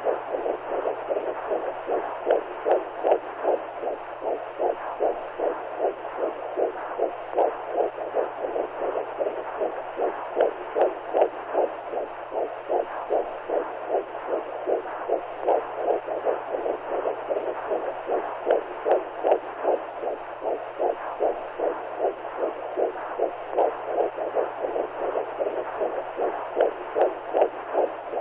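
Womb sound for soothing babies: a steady whooshing noise with an even, rhythmic heartbeat-like pulse running through it, over a faint low hum.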